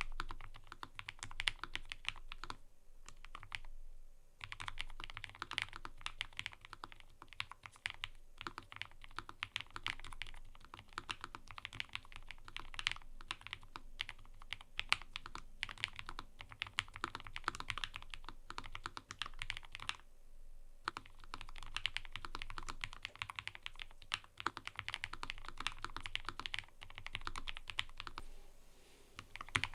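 Fast, continuous typing on a mechanical keyboard: a dense run of key clicks, broken by short pauses about three seconds in, about twenty seconds in and near the end.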